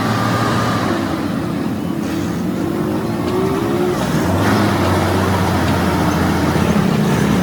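Heavy truck engine running steadily, its pitch drifting gently, with a deeper note growing stronger about four seconds in.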